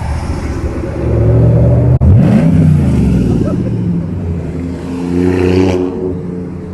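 A vehicle engine running close by and accelerating: its pitch rises sharply about two seconds in, then falls away, and it swells again near the end.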